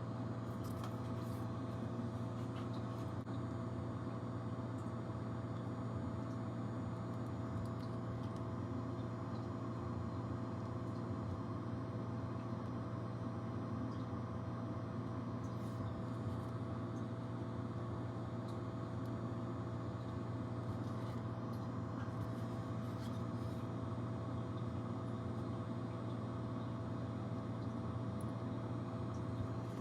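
Steady low mechanical hum holding one constant pitch, with faint light clicks now and then.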